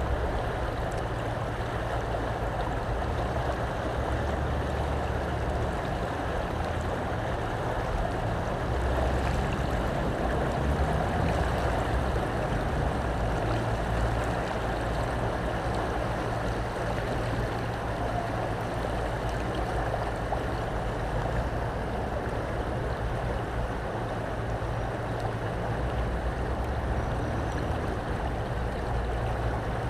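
The swollen River Severn in flood, its fast water rushing steadily, with an uneven low rumble underneath.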